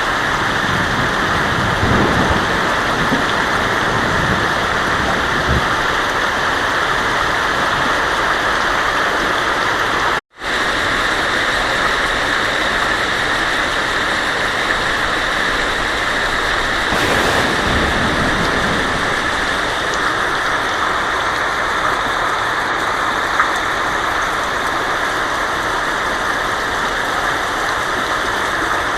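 Heavy rain drumming steadily on a tin roof, with low thunder rumbles about two seconds in and again around seventeen seconds. The sound drops out for a split second about ten seconds in.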